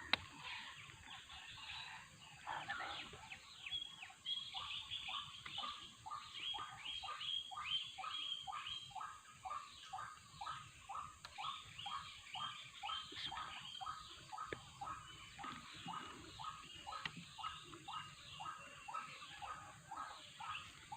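White-breasted waterhen giving its repeated 'kru-ak' call, about two calls a second, each a quick falling note, kept up steadily.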